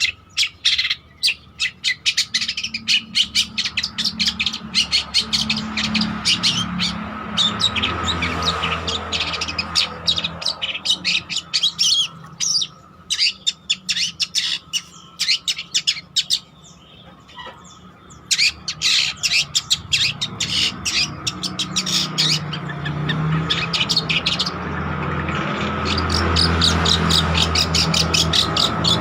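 Long-tailed shrike (cendet) singing continuously, in fast runs of sharp chattering notes broken by two short pauses, over a low background hum.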